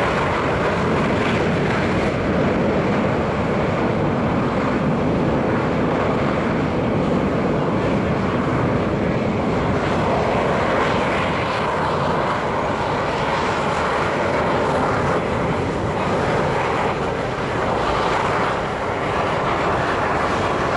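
Boeing C-17 Globemaster III's four Pratt & Whitney F117 turbofan engines, a loud, steady jet roar that eases slightly near the end.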